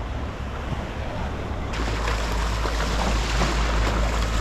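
Ocean surf washing on a beach, with wind rumbling on the microphone. Less than two seconds in, the sound changes abruptly: the wind rumble gets heavier and the surf hiss brighter.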